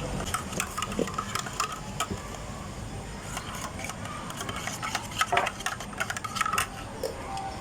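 Irregular clicks, taps and clatter of drink-making at a coffee stall: utensils, cups and containers being handled, over a steady background noise.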